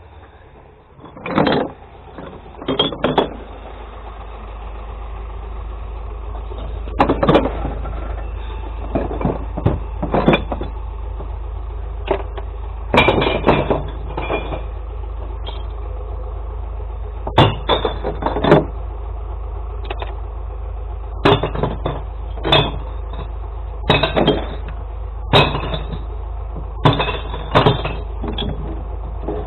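Glass-recycling truck's engine running with a steady low hum, while a string of loud clattering crashes comes about every second or two, typical of glass bottles being tipped into the truck's compartments.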